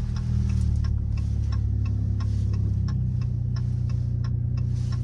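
Straight-piped car engine running with a low, steady drone, its tone stepping down slightly about three seconds in. A turn signal clicks evenly, about three ticks a second.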